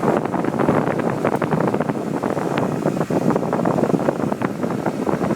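Wind buffeting the microphone in an uneven, crackly rush, over the 2001 Audi TT's five-valve turbocharged four-cylinder engine idling.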